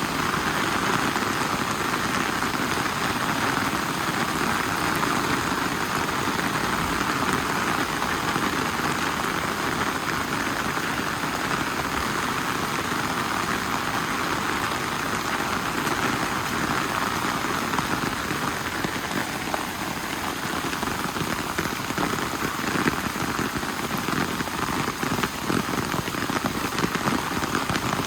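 Steady rain falling, an even hiss with many small drop hits through it, and a few sharper drop hits near the end.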